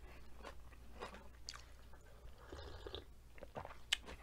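A person chewing food close to the microphone: faint, irregular soft mouth clicks and crackles, with one sharper click near the end.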